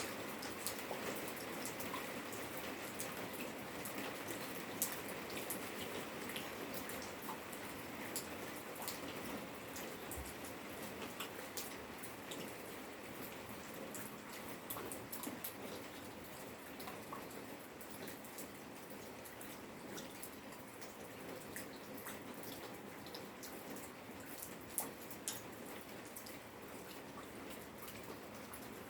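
Steady rain falling, with many individual drops ticking and dripping on hard surfaces.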